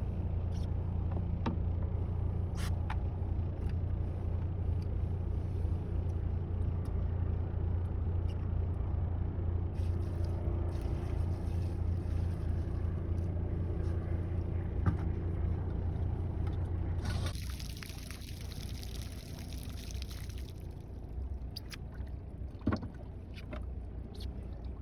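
Trawler's engine running under way with a steady low drone. About two-thirds of the way through, the drone drops in level and a hiss rises for a few seconds.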